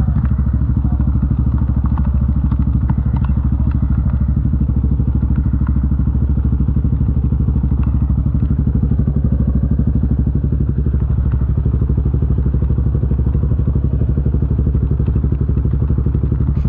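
Honda TRX 450 ATV's single-cylinder four-stroke engine running steadily at a constant low engine speed, with occasional light knocks and clatter.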